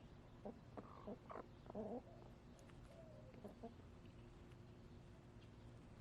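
Backyard hens clucking softly: a quick run of short clucks in the first two seconds, a falling call a little later and a few more clucks, then quiet.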